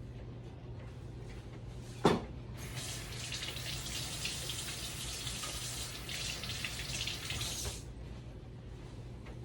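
A sharp knock, then a kitchen sink faucet running into the sink for about five seconds before it is shut off, as hands are washed.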